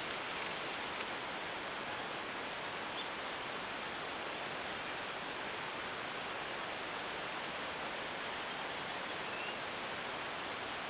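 Steady, even hiss of background noise with no distinct events. Two faint, brief high chirps come through, one about three seconds in and one near the end.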